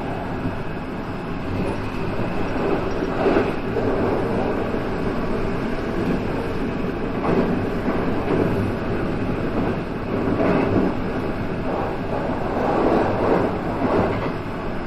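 JR West 223 series electric train running along the line, heard from just behind the driver's cab: a steady rolling rumble with several brief louder swells.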